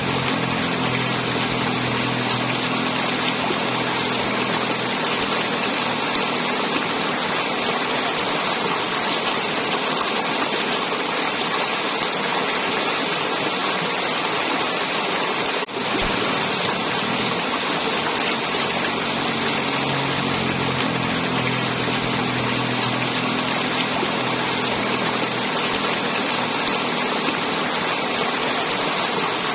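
River water flowing and gurgling, a steady rushing with a brief dip in level about halfway through.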